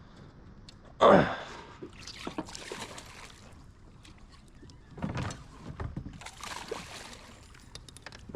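Water splashing at a kayak: a sudden loud splash about a second in, then sloshing and a second splash around five seconds in, as a hooked bass thrashes at the surface.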